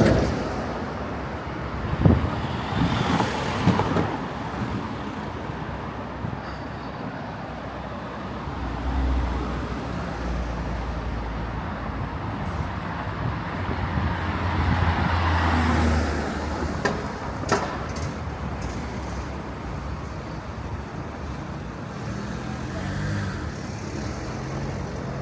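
City street traffic: a steady hum of passing vehicles, with one vehicle's low engine rumble building and fading in the middle. A few sharp knocks stand out, one about two seconds in and a couple more later on.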